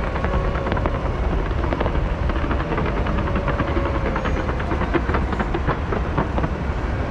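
Fireworks display going off continuously: a steady low rumble of explosions with many crackling pops layered over it.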